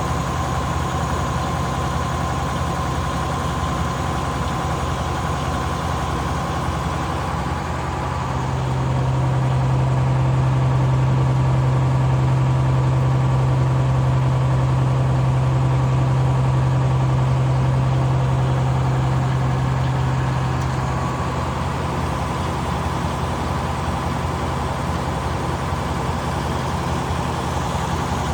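An engine running steadily. About a third of the way in it grows louder, with a strong low hum that holds for about twelve seconds before it settles back to its earlier level.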